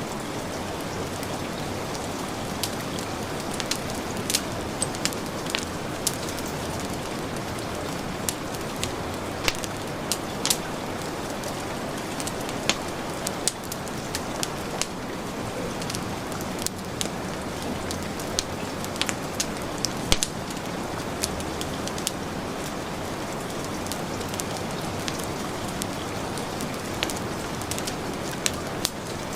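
Heavy rain falling steadily, mixed with a wood fire in a fireplace crackling and popping at irregular moments.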